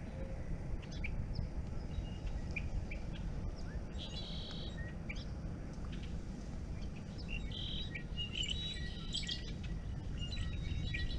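Wild birds chirping, a series of short high calls and brief trills coming every second or two, over a steady low rumble.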